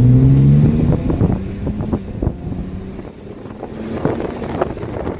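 1997 Lexus GS300's 2JZ-GE straight-six with the secondary muffler deleted, climbing in revs under acceleration for about the first second with a drony exhaust note, then easing off to a lower rumble.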